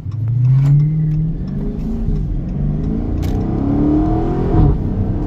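Chrysler 300C's 6.4-litre HEMI V8 under hard acceleration, its engine and exhaust note climbing in pitch through several pulls and dipping at each upshift of the automatic transmission.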